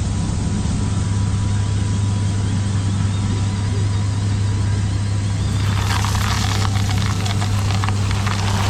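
Steady low hum of a radio-controlled construction machine's motor running. About six seconds in, a dense crackling rush with many small clicks joins it.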